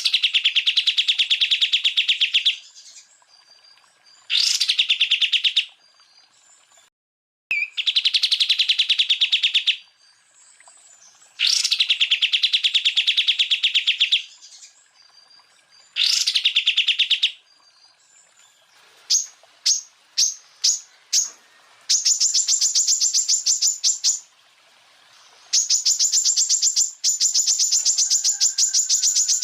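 Greater green leafbird (cucak ijo) singing in rapid, rattling trills of two to three seconds each, repeated about every four seconds. Past the middle come a few short sharp chirps, then longer, higher-pitched rapid trills.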